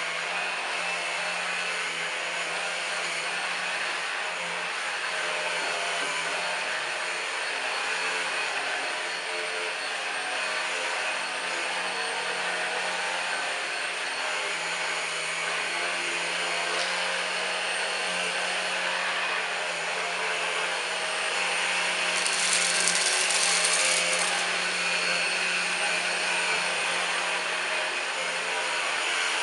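Numatic Henry Quick HEN70 cordless stick vacuum running steadily with a motor hum and rushing air. For about two seconds, about three quarters of the way through, the hiss of air gets louder.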